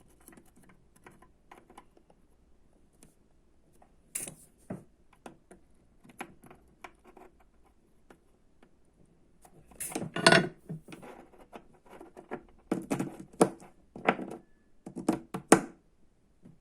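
Handling noise of small hard objects on a work surface: scattered clicks, taps and short scrapes, sparse at first, with louder clusters about two-thirds of the way in and near the end.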